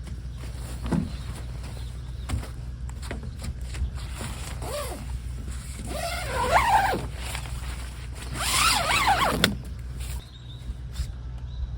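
Nylon fabric of a Karnik two-person backpacking tent rustling and rasping as it is handled and shaken out, in three main bursts about five, six and a half and nine seconds in, with small clicks between, over a steady low rumble.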